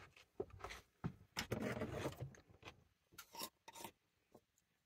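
A person biting and chewing a piece of raw cucumber: scattered crunches, with a denser stretch of chewing about a second and a half in.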